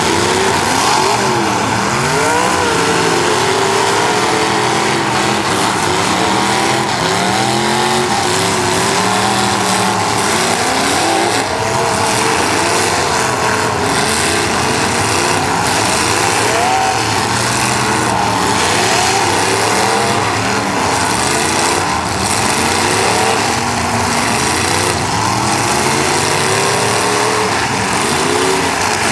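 Several demolition derby cars running at once, their engines revving up and down over and over, with tyres spinning and the odd crash of cars colliding.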